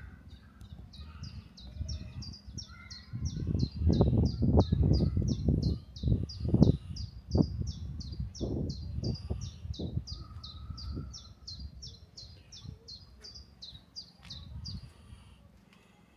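A bird calling: a short, high chirp that falls in pitch, repeated evenly about three times a second for most of the time. Loud low rumbling and knocks swell up underneath in the first half, then fade.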